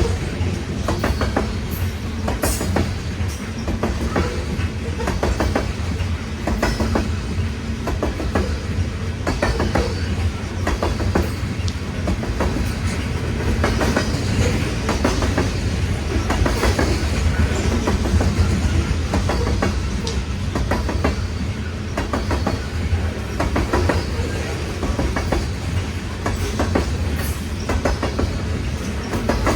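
Loaded coal train cars rolling past: a steady heavy rumble with a constant irregular clicking and clacking of steel wheels over the rails.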